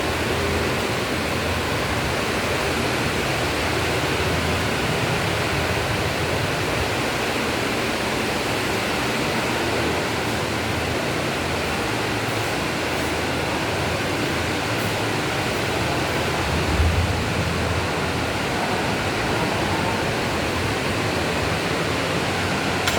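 Heavy rain falling steadily, an even, loud hiss, with a brief low rumble about seventeen seconds in.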